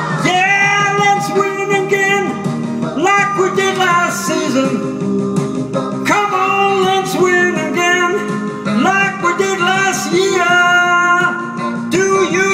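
A song sung with guitar accompaniment, the voice holding long notes that slide up into pitch.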